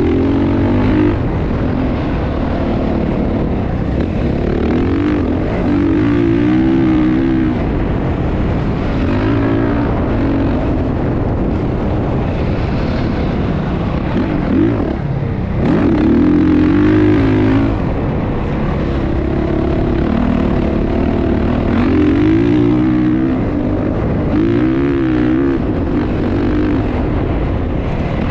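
Motocross bike engine running hard, its pitch rising and falling again and again as the throttle is worked and gears change.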